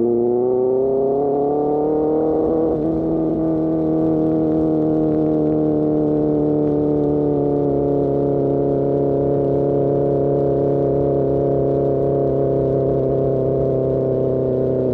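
Superbike engine running through an Austin Racing GP1R aftermarket exhaust: revs climb over the first two seconds or so, then hold steady at cruising speed. Near the end the revs begin to drop.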